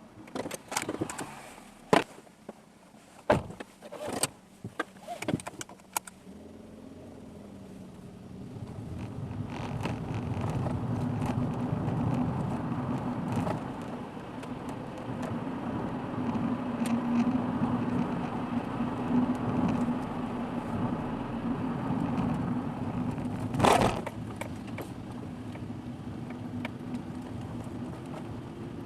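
A car's engine and road noise heard from inside the car build up about eight seconds in and then run steadily as it drives. Before that comes a quick series of sharp clicks and knocks, and another sharp knock sounds near the end.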